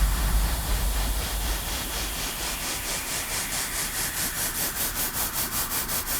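Electronic noise riser in a drum and bass breakdown: the bass drops out and a hissing white-noise layer pulses about five times a second, growing brighter toward the end as it builds back to the drop.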